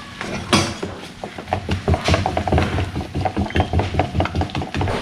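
Rapid, irregular clicking and knocking of small hard objects being handled, several a second, with louder knocks about half a second and two seconds in.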